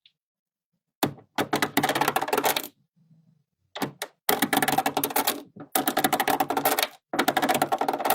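Magnetic pieces clicking and rattling against each other as they are handled and snapped together. The clicks come in four dense bursts, each about a second long, with dead silence between them.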